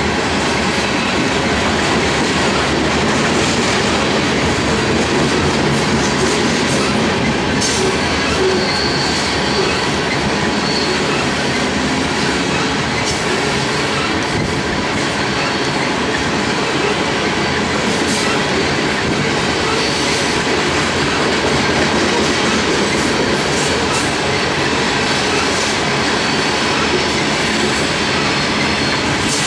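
Loaded coal hopper cars rolling past: a steady rumble and clatter of steel wheels on rail, with a faint high wheel squeal coming and going, most noticeable about a third of the way in.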